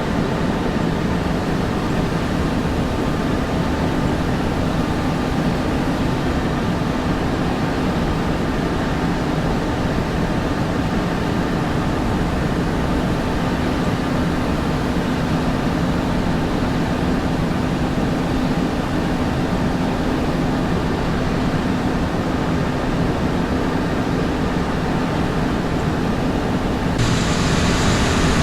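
Steady tractor engine drone heard from inside the cab. About 27 seconds in, the sound turns a little louder and hissier.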